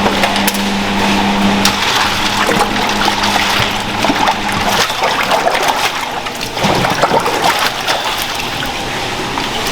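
Running water with clattering and knocking of handled items, over a steady machine hum that stops about five seconds in.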